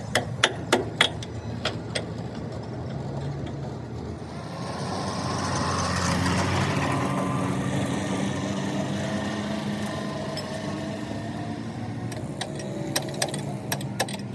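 An engine running, swelling up about a third of the way in and then holding a steady hum, with sharp metallic taps at the start and again near the end.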